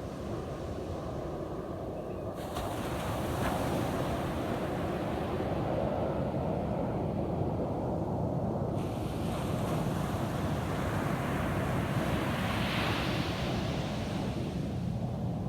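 Ocean surf washing onto a beach, a steady rush that swells louder as waves break, with wind buffeting the microphone.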